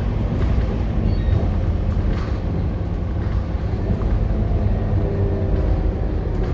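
Scania K230UB city bus's diesel engine running steadily under way, a constant low rumble with road noise.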